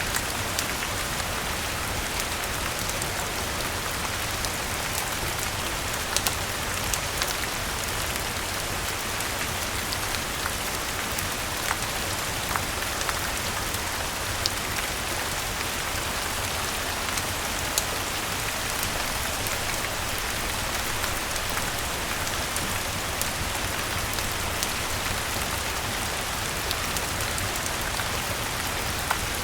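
Steady rain falling, with scattered sharp crackles and pops from a wood fire mixed in.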